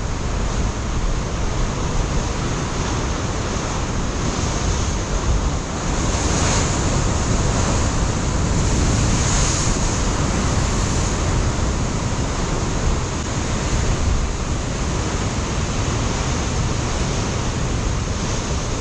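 Ocean surf breaking on a rocky shore in a continuous wash that swells and eases, with gusty wind buffeting the microphone as a low rumble.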